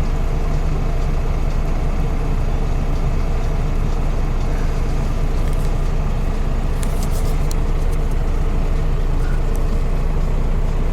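Scania truck's diesel engine running steadily, an even low drone.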